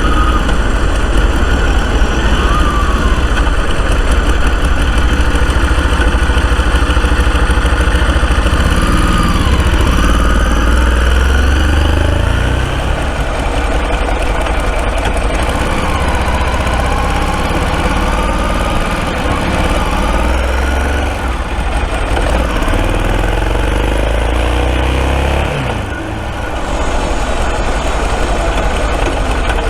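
Ducati Multistrada 1000DS air-cooled L-twin engine running at idle, with the revs raised and let fall twice: the bike has an exhaust sound problem.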